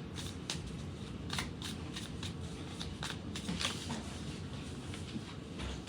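Tarot deck being shuffled by hand: irregular soft snaps and slides of the cards, several a second, over a steady low background hum.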